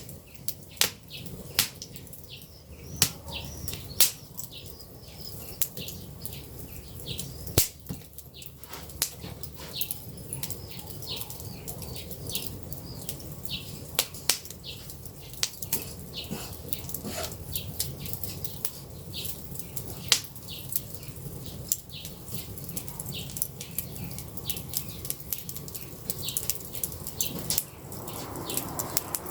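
Campfire crackling: irregular sharp pops and snaps, some loud, over a low steady rumble of the flames. A louder rushing noise comes in near the end.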